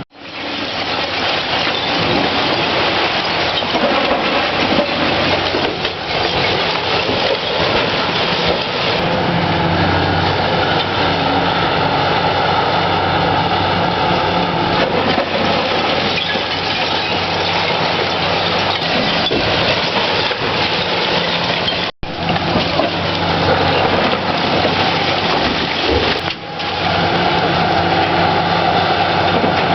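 Heavy excavator's diesel engine running hard, mixed with the crunch and clatter of demolition debris. The sound breaks off sharply twice in the second half, where one clip cuts to the next.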